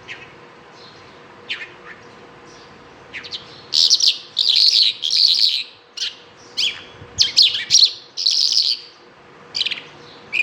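Bimaculated lark singing: a few separate high notes, then from about four seconds in a quick, dense run of chirping phrases lasting some five seconds, and a few more notes near the end.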